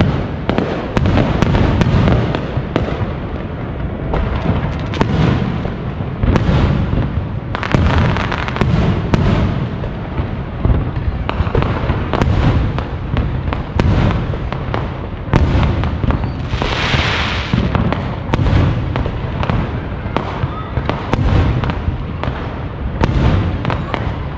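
Aerial firework shells bursting in a dense, continuous barrage: deep booms with crackling in between. A short hissing burst comes a little past the middle.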